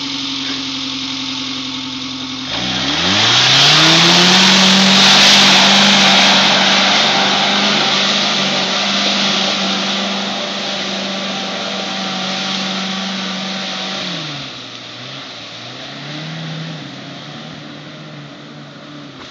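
Suzuki Samurai 4x4's engine running low, then revving up sharply about two and a half seconds in and held at high revs as it pushes through the mud. After about eleven seconds the revs drop back, rise briefly once more, and the engine fades as the vehicle moves away.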